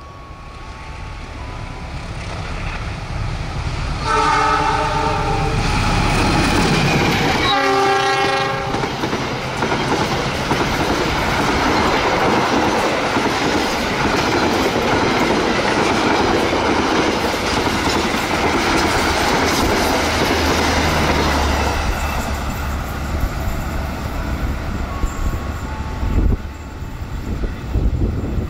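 A diesel-hauled passenger train approaches, growing louder, and the locomotive's horn sounds twice, a long blast about four seconds in and a shorter one about three seconds later. The carriages then pass close by with steady clattering of wheels on the rails, which fades as the train moves away.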